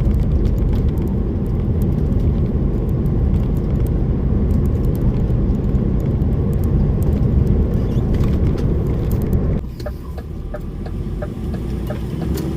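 DAF lorry running on the road, heard from inside the cab: a steady low engine and road rumble that drops away about ten seconds in. After the drop a regular ticking of about two or three a second is heard.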